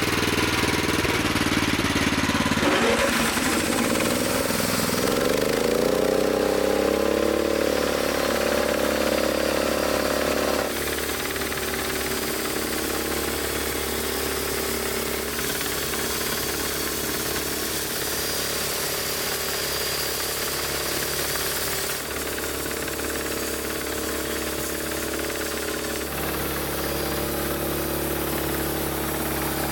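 Engine-driven homemade band sawmill running. About three seconds in the engine speeds up, its pitch rising for several seconds before it settles into a steady run; about eleven seconds in it becomes a little quieter, and its tone shifts slightly later on.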